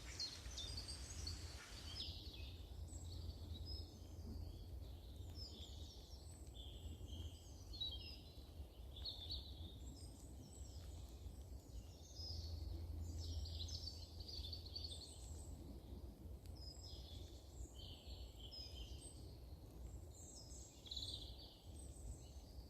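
Small songbirds singing, short quick chirping phrases repeated every second or two, over a steady low rumble.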